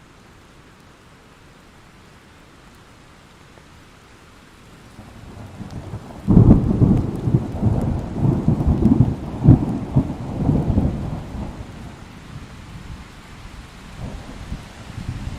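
Thunderstorm sound effect: steady rain hiss, then thunder that builds about five seconds in, breaks into a loud crackling peal about a second later and rolls on for several seconds before fading back under the rain.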